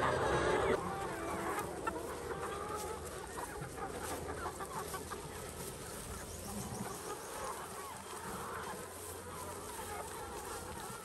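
Chickens clucking: many short overlapping calls over a steady low hum.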